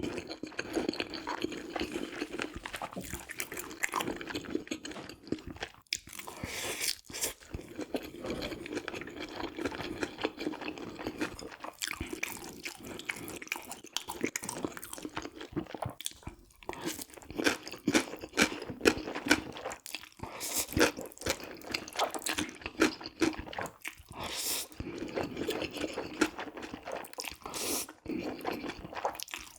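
A person eating close to the microphone: continuous chewing and biting with many small wet clicks and smacks.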